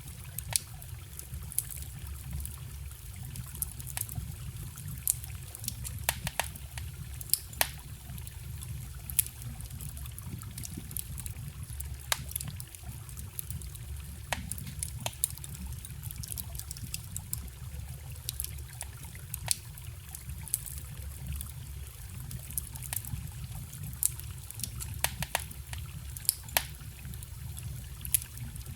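Wood campfire crackling, with frequent sharp pops and snaps at irregular intervals, over the steady trickle and rush of a small forest stream.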